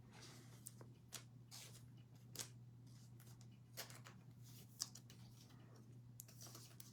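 Trading cards being handled and slid against one another: faint scattered swishes and light clicks several times over a steady low electrical hum.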